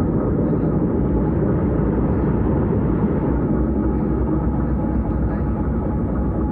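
Vienna S-Bahn electric train running along the line, a steady rumble of wheels on track and running gear.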